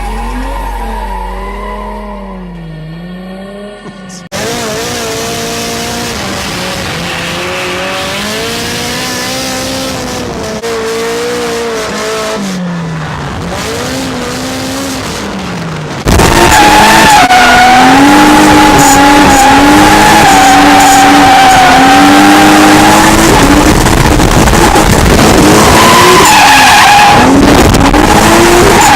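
Drift cars sliding: engines revving hard and held at high revs, with tyres squealing and skidding. The sound cuts abruptly about four seconds in and again about sixteen seconds in, after which it is much louder, the engine held high and steady.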